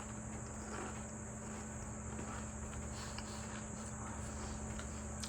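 Faint, irregular crunching of a potato chip being chewed, over a steady high-pitched whine and a low hum.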